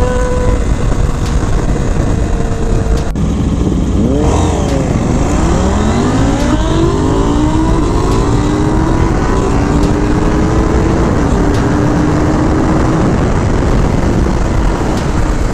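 Motorcycle engine running at a steady pitch, then about four seconds in revving up and accelerating hard through several gears, its pitch climbing and dropping back at each shift, before settling into a steady cruise.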